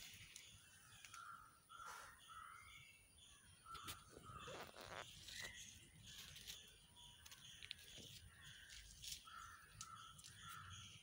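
Faint birds calling in short repeated notes, often in twos and threes, with a few soft rustles as leaves brush the phone.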